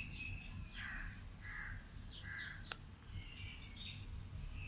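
Faint bird calls: three short harsh calls about a second apart in the first half, with higher chirping around them, and a single sharp click a little past the middle.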